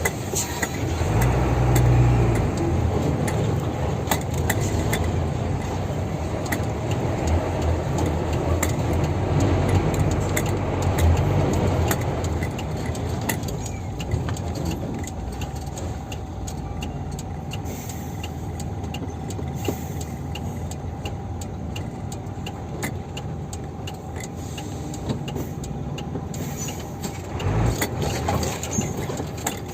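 Heavily loaded dump truck's diesel engine running low and steady on a steep dirt mountain road, with many small sharp clicks over it. The engine swells louder about two seconds in and again near the end.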